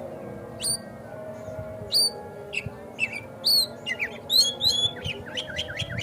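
Oriental magpie-robin (kacer) singing: loud, high whistled notes with sharp pitch sweeps, coming about a second apart at first and then quickening into a rapid run of notes in the second half.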